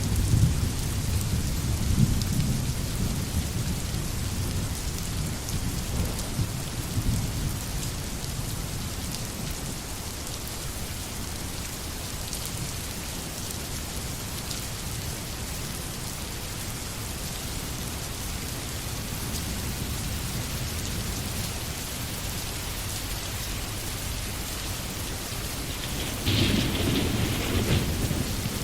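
Steady rain falling in a forest, a dense even hiss of drops. A low rumble underlies the first several seconds and fades out, and a louder, rougher surge comes about two seconds before the end.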